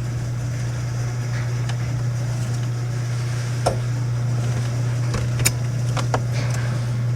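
Car engine idling steadily just after starting, a constant low hum with a few sharp clicks in the second half.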